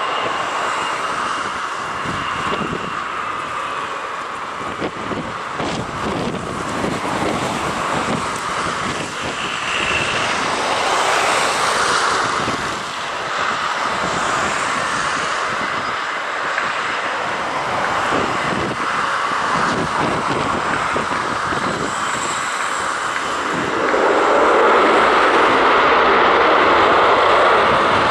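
Military aircraft engines running with a steady high whine, growing louder about 24 seconds in, with strong wind buffeting the microphone.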